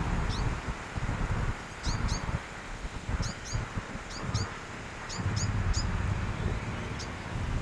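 Small birds chirping in short, high notes, often two in quick succession, repeated many times, over a low rumble of wind on the microphone.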